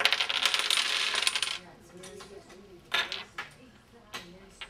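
Small plastic Digi-Block cubes clattering and rattling together for about a second and a half, then a single clack about three seconds in.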